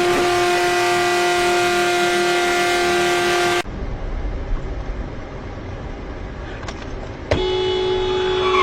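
Car horn held in a long, steady blast that cuts off about three and a half seconds in. Quieter car engine and road noise follow, and another long horn blast starts near the end.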